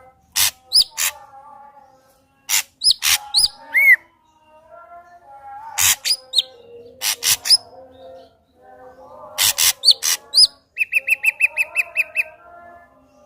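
Ashy drongo singing: sharp clicking notes mixed with quick upward-sweeping whistles over lower warbling phrases. Near the end comes a rapid run of about a dozen short, evenly repeated notes.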